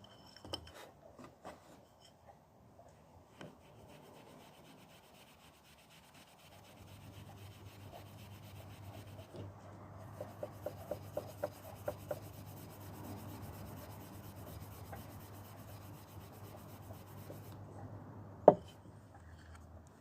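Hand polishing of a small Suzuki GS850 engine side casing: quiet, steady rubbing of abrasive against the metal, with a run of short quick strokes midway. A single sharp knock near the end.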